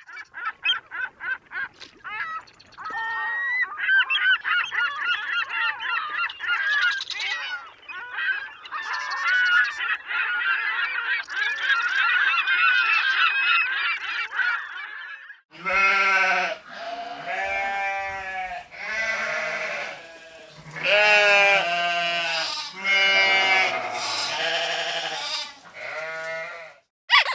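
Animal calls: a dense chorus of many overlapping high calls for about the first fifteen seconds, then, after a brief break, a series of separate, lower, drawn-out calls.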